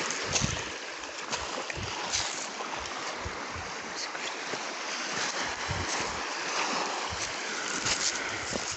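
Steady shoreline wash of small waves on a beach, with wind buffeting the microphone in irregular low thumps.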